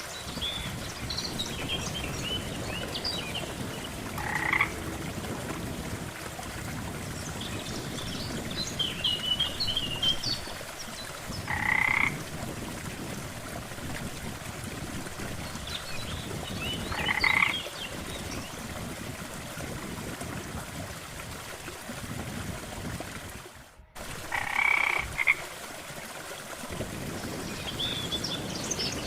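Frogs calling at a lake: one frog gives a short croak every five to seven seconds, while higher chirping calls come in clusters between them, over a steady background hiss. The sound briefly cuts out about four-fifths of the way through.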